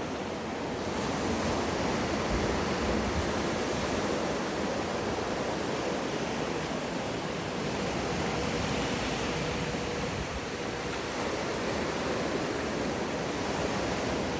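Steady rush of wave water in a surf wave pool, swelling slightly in the first few seconds, with a faint steady hum underneath.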